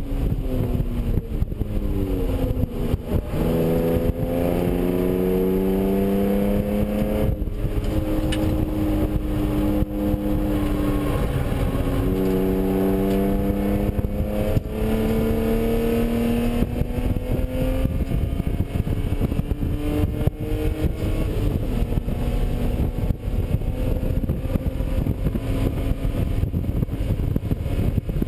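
BMW E36 M3's inline-six engine at full effort on track, heard from inside the cabin: its pitch climbs under acceleration, breaks sharply at gear changes and falls away when the driver lifts off. Steady wind and road noise run underneath.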